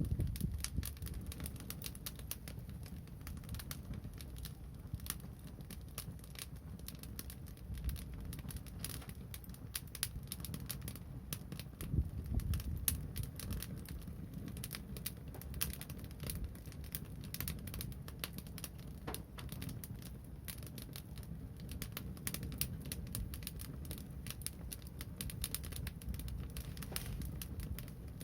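Wood fire crackling: many irregular sharp snaps and pops over a low steady rumble.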